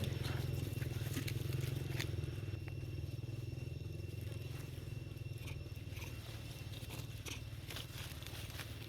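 A low, steady engine-like hum, slowly fading, with scattered small clicks and rustles over it.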